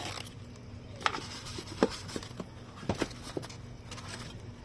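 Scattered light knocks and clicks, about four of them, from things being handled and set down, over a low steady hum.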